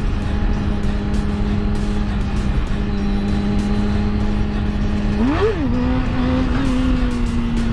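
Kawasaki ZX-6R inline-four engine holding a steady drone at cruising speed, with wind rush. About five seconds in, the revs shoot up and fall back within half a second as the front wheel is lifted in a wheelie.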